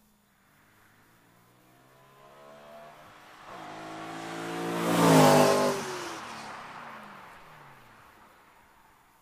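BMW E90 M3's V8 with Magnaflow mufflers and Macht Schnell track pipes accelerating past: the exhaust note climbs in pitch as it approaches, is loudest about five seconds in, then drops in pitch and fades as the car moves away.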